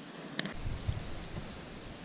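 Wind rumbling on the microphone with light rustling, and a brief high click about half a second in.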